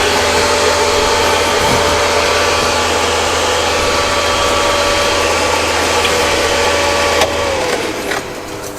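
Scooter motor whining steadily under a rush of wind noise while riding; about seven seconds in the whine glides down in pitch and the noise drops as the scooter slows.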